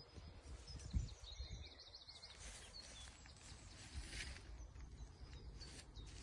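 Birds chirping faintly in short, quick runs of high notes over a steady low rumble of outdoor background noise, with one low thump about a second in.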